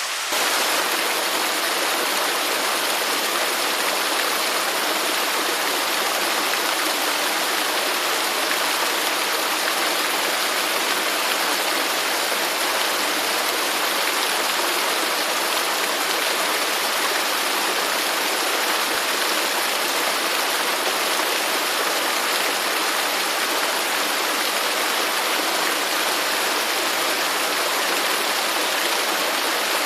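Running stream water, a steady rushing with no distinct splashes, coming in with a slight step up in loudness just after the start.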